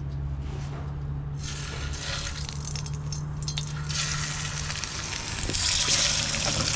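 Fish fillets frying in a hot pan over a steady low hum, the sizzle swelling louder about four seconds in; the pan is a little hot.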